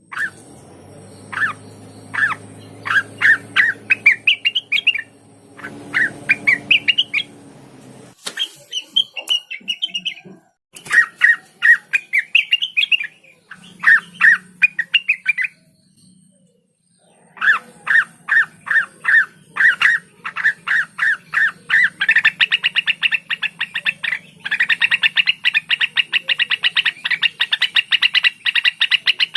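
Cucak wilis (rengganis) songbird calling: series of sharp, repeated chirps that climb in pitch within each run, broken by short pauses, then quickening into a fast, continuous rattling trill over the last several seconds.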